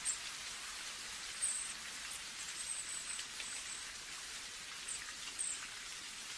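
Steady rain, an even hiss of falling drops with a few brief, sharper high ticks scattered through it.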